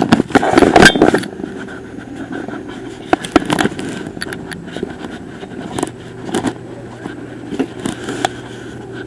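Steady hum of a running vehicle engine, with a loud noisy burst in the first second and scattered light clicks and knocks.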